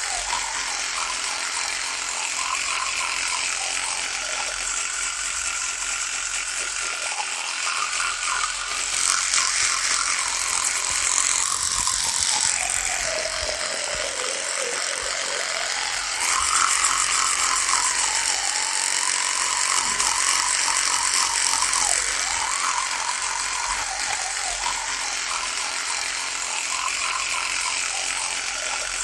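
Electric toothbrush running with a steady rattling buzz; its hum sinks in pitch a little before the middle and rises back a few seconds later.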